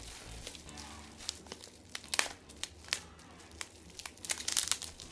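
Plastic bubble wrap crinkling as it is handled and unwrapped: irregular crackles, with a denser flurry near the end.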